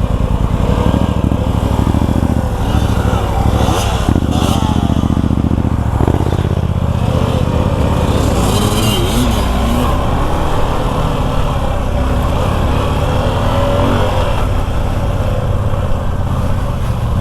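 Motorcycle engine running under way, its pitch rising and falling several times as the throttle is opened and closed.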